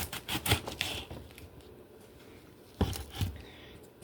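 Kitchen handling sounds: a quick run of light clicks and taps, then a single dull thump a little under three seconds in, followed by a few softer taps.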